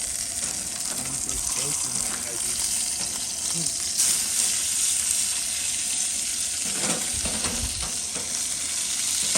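Ribeye steak sizzling in a cast iron skillet on a propane camp stove, a steady frying hiss, with a brief low rumble about seven seconds in.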